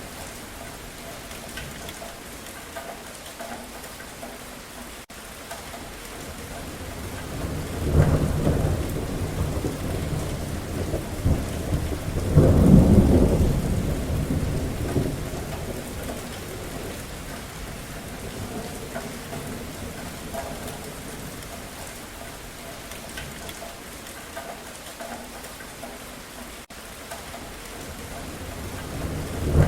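Steady rain falling, with rolling thunder: a rumble about eight seconds in, a louder, longer rumble a few seconds later that dies away slowly, and another starting to build near the end.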